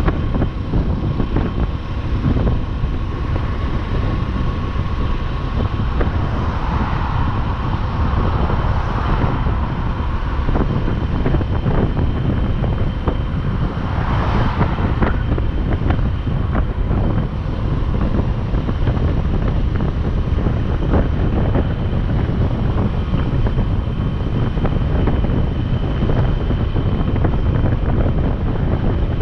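Wind buffeting the microphone of a motorcycle riding at road speed, with a steady rumble of road and motorcycle noise underneath. Two brief swells of hiss rise and fade, about 7 and 14 seconds in.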